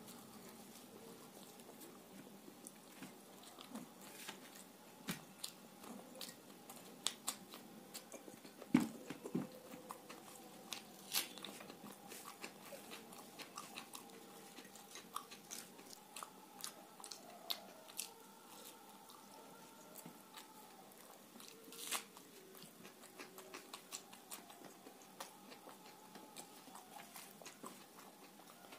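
A person biting and chewing puris dipped in curry, with scattered sharp mouth clicks; the loudest comes about nine seconds in.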